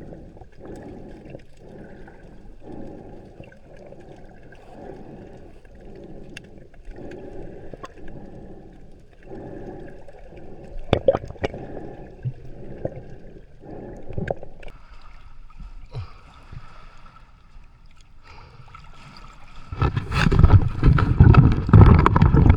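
Seawater sloshing and gurgling in an even rhythm about once a second, then a louder rush of noise near the end.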